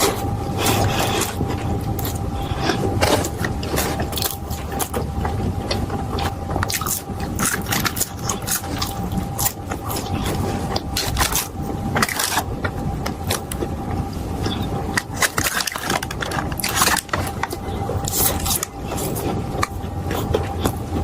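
Close-miked eating: chewing with many irregular crisp crunches, over a steady faint hum.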